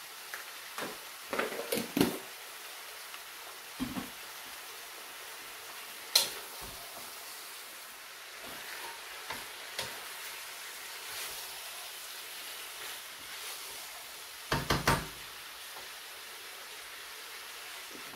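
Mixed vegetables frying in a wok with a steady sizzle, while a wooden spatula stirs and knocks against the pan: a few knocks about two seconds in, a sharp tap about six seconds in, and another cluster of knocks near the end.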